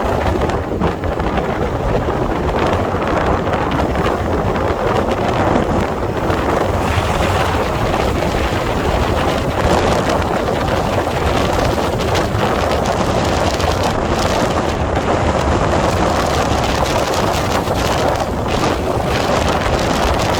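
Wind buffeting the microphone of a moving road vehicle, over steady road and engine noise.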